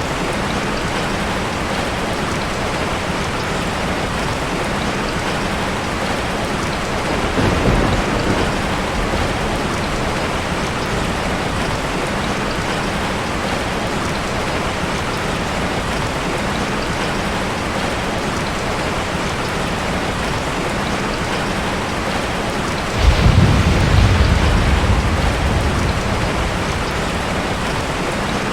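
Steady rain falling, with thunder: a soft rumble about seven seconds in and a louder one near the end that starts suddenly and dies away slowly.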